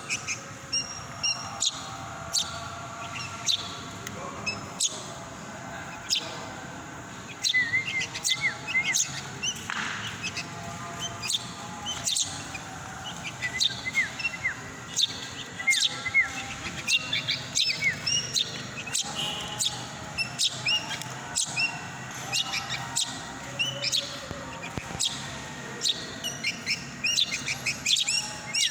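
Pet bird chirping over and over in short, quick chirps, with scattered sharp clicks among them.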